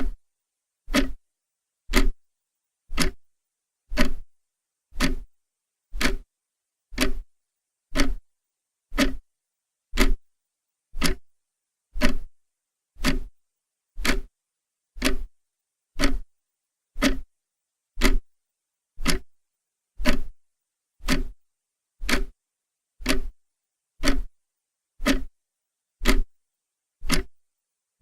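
Clock ticking steadily, one short sharp tick each second with silence in between.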